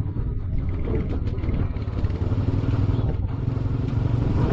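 Royal Enfield Classic 500 single-cylinder engine running steadily while riding, with a low rumble of wind and road noise.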